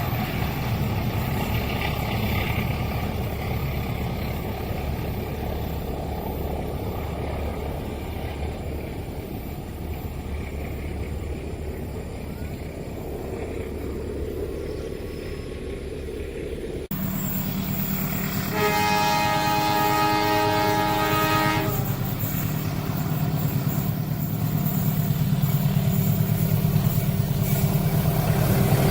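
Rumble and clatter of a train passing a level crossing, which cuts off abruptly about two-thirds of the way in. Then a locomotive horn sounds one chord-like blast of about three seconds, followed by the low rumble of an approaching locomotive's engine growing louder.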